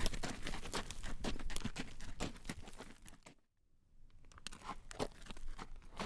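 A horse's hooves clip-clopping on a road at a walk as it draws a carriage, a quick run of clacking hoofbeats. The sound cuts out completely for about half a second a little past the middle, then the hoofbeats resume.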